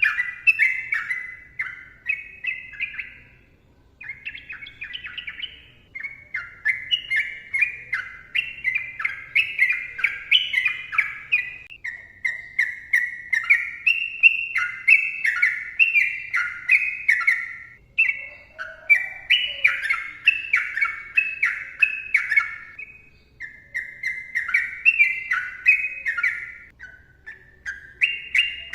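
Yellow-vented bulbul (trucukan) singing long, dense runs of quick, bubbly warbled phrases, one after another, with a few short breaks.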